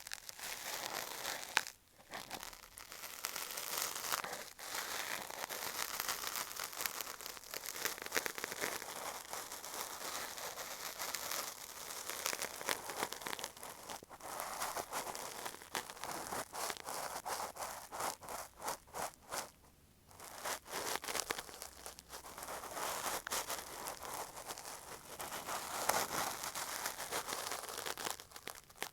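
Cotton swab rubbed and scraped over an earphone microphone, giving a close, continuous scratchy rustle of quick strokes that pauses briefly about two seconds in and again around twenty seconds in.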